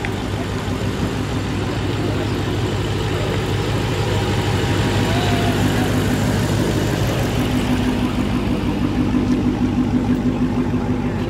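Car engine idling at a car meet: a steady low hum that grows a little louder in the second half.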